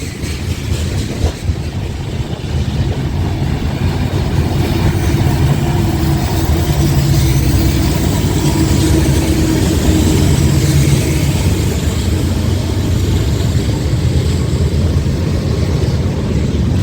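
Several diesel freight locomotives passing under power, their engines making a steady low drone that grows louder over the first few seconds and then holds.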